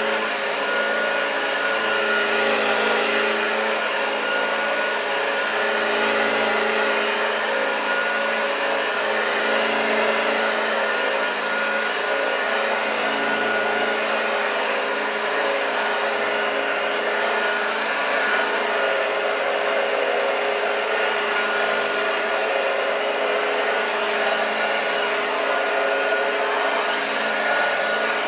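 1986 Hoover Junior U1206 upright vacuum cleaner running steadily: an even motor whine and hum over rushing air. The motor has freshly greased bearings, new brushes and a new drive belt.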